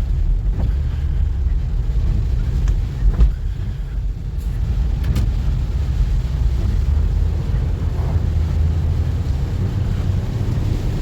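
A car driving: a steady low rumble of engine and road noise, with a few faint knocks.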